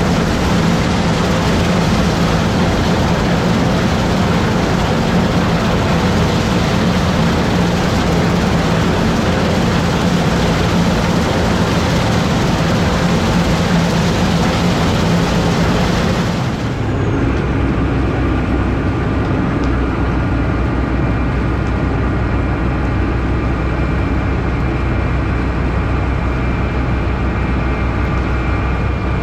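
Combine harvester running steadily while harvesting soybeans, heard from inside the cab. About 17 seconds in, the sound changes suddenly: the hiss drops away, leaving a steady low engine hum with a few thin, high, steady whines.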